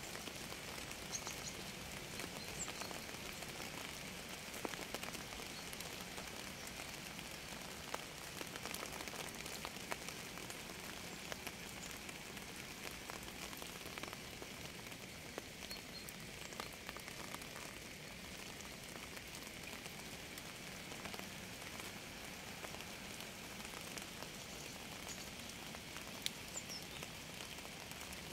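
Steady rain falling on a surface, a constant hiss with many individual drops ticking through it. A few faint high chirps stand out briefly near the start and again near the end.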